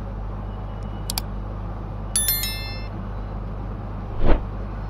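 A short double click about a second in, then a bright bell-like chime, over a steady low hum, typical of a subscribe-button and notification-bell sound effect. A brief, louder swish or thump follows near the end.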